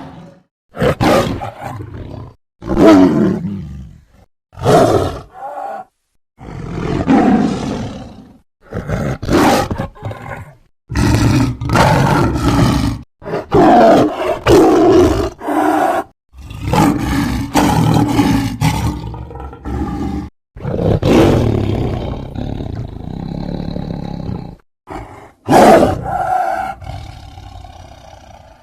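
Sabre-toothed cat (Smilodon) sound effects: about a dozen separate big-cat roars, one after another. Each lasts one to four seconds, with short silent gaps between them, and several stop abruptly.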